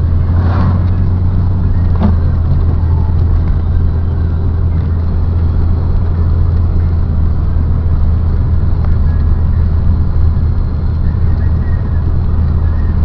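A vehicle driving at a steady pace on snow-covered streets: a steady low engine and road drone, with a faint click about two seconds in.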